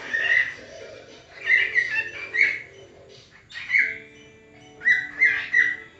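Pet parrot giving a series of short, loud chirping calls, some sliding in pitch, about seven in quick succession.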